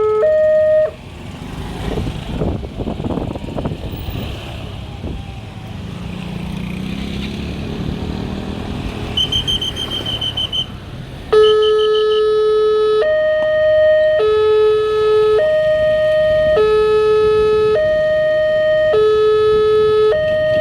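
Railway level-crossing warning alarm sounding two alternating tones, low and high, switching a little more than once a second. It cuts off just under a second in, leaving traffic noise with a vehicle passing and a short run of high rapid beeps, then starts again loud about eleven seconds in and keeps alternating.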